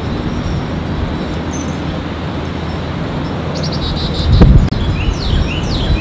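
A songbird sings over a steady rushing background noise. From about halfway in it gives a quick run of high notes, then a series of repeated down-slurred whistles. A single click and a low rumble come near the start of the song.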